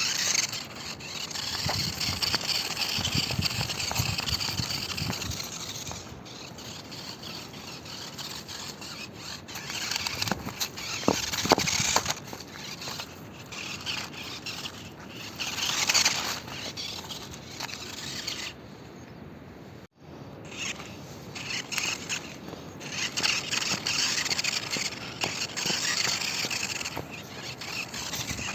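Toy RC monster truck driving off-road: its small motor and gears whine in uneven surges as the throttle changes, and its tyres scrape over rough ground. The sound drops out briefly about two-thirds of the way in.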